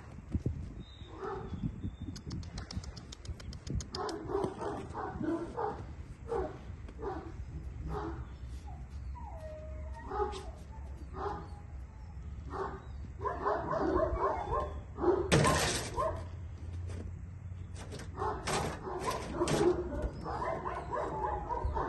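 Central Asian Shepherd (Alabai) puppy yipping and whimpering in short repeated bursts, with a brief loud noise about two-thirds of the way through.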